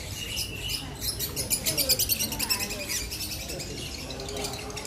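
Small birds chirping in quick succession, a dense run of high chirps from about one to three seconds in, with more starting again near the end.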